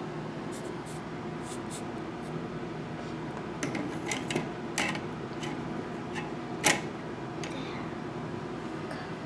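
A few small sharp clicks and taps from handling electronic kit components and tools at a workbench, clustered in the middle with the loudest just before the last third, over a steady low room hum.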